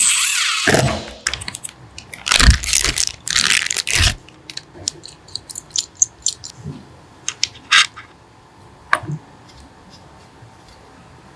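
Workshop handling sounds: a short rasping noise, then a run of scrapes and knocks, then scattered small clicks and taps.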